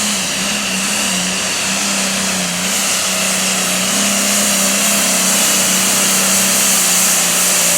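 Super Farm class pulling tractor's turbocharged diesel engine running flat out under load as it pulls the sled, with a steady engine note under a loud high hiss that grows stronger about three seconds in.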